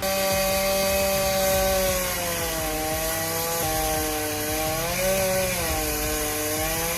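Two-stroke chainsaw cutting into wood, its engine pitch sagging under load twice as the chain bites and then picking back up.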